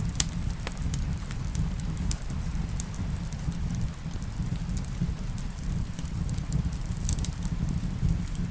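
Wood fire crackling, with scattered sharp pops, the sharpest just after the start, over a steady low rumble and the hiss of rain.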